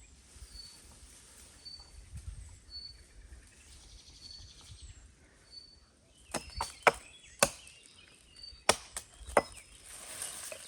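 About six sharp blows on dry wood in the second half, single knocks a fraction of a second to a second apart, like a hatchet chopping.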